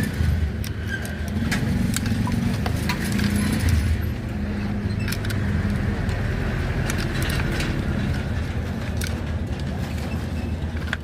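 A vehicle engine running steadily, with scattered light metallic clicks and clinks.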